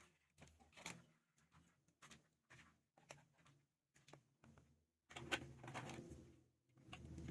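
Faint, irregular clicks and light knocks of hands handling a laptop, about two a second, growing busier near the end.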